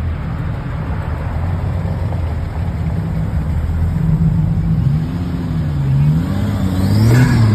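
Car engine running with a steady low note, then revved up and down several times in the last few seconds, loudest near the end as the car passes close by.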